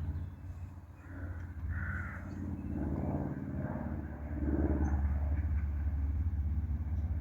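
Steady low rumble of a Romney, Hythe & Dymchurch Railway miniature train, with a few short harsh calls over it, the first about two seconds in.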